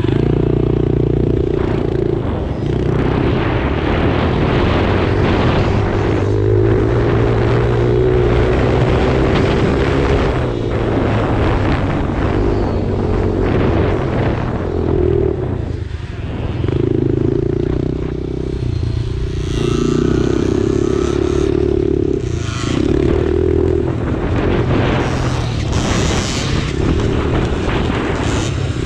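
Small kids' dirt bike engines running on a motocross track, the throttle opening and closing so the pitch steps up and down, with brief drops in between.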